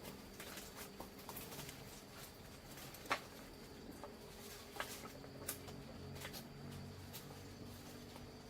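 Faint scattered clicks and taps, with one sharper knock about three seconds in.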